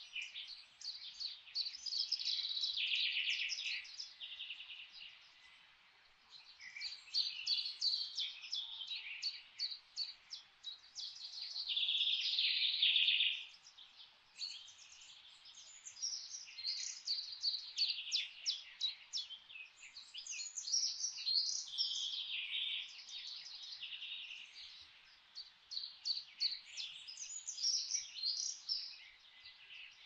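Songbirds singing: phrases of quick, high chirps and trills, each a few seconds long with short pauses between, over a faint steady background hiss.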